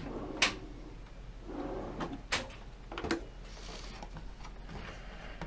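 Boat cabin cupboard doors and drawers being opened and shut: three sharp clicks of catches and latches, one about half a second in and two more about two and three seconds in, with a brief rustling hiss between them.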